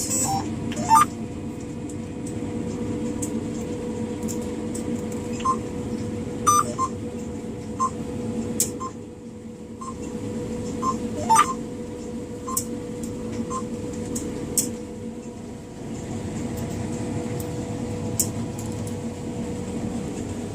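Combine harvester running, heard from inside the cab as a steady drone with a constant hum. Short electronic beeps sound a dozen or so times at irregular intervals, mostly in the middle stretch.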